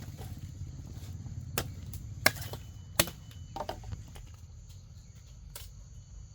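Sugarcane stalks being chopped with a blade, a handful of sharp, separate strokes at uneven intervals, the loudest two near the middle.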